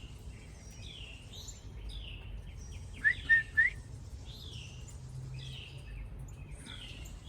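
Songbirds singing together, with a clear down-slurred whistle note repeated about once a second and three loud, sharp chirps close by about three seconds in.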